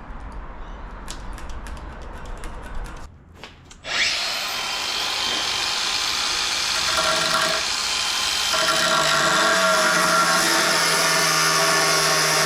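Hand-held electric power tool spinning up with a rising whine about four seconds in, then running steadily, its tone shifting partway through as it bears on the work. Low rumbling and light clicks come before it.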